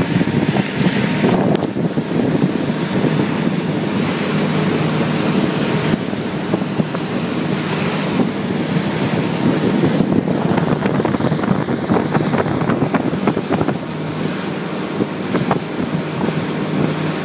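Honda BF90 VTEC four-stroke outboard running steadily at high speed under heavy wind noise on the microphone and rushing water. Through the second half there are many short knocks.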